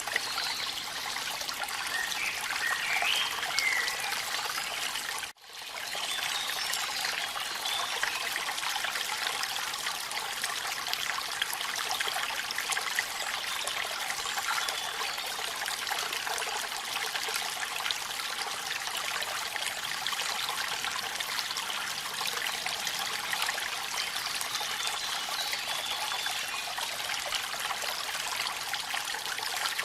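Waterfall and rain: a steady hiss of falling and splashing water, cut off sharply for a split second about five seconds in before it resumes.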